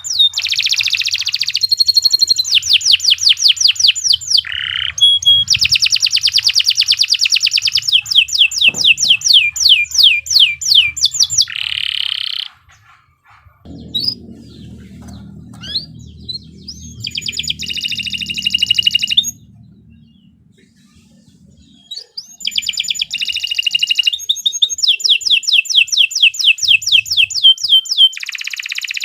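Domestic canary singing a long, loud song made of fast trills of rapidly repeated high notes, in phrases broken by a few short pauses. A low hum sounds during one of the pauses near the middle.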